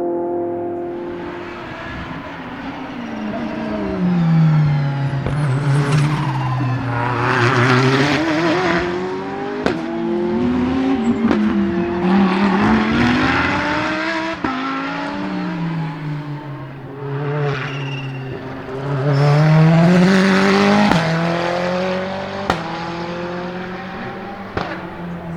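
Ferrari 488 GTE race car's twin-turbo V8, its pitch repeatedly dropping as it slows and climbing again as it accelerates through the gears. Several sharp bangs come on the upshifts.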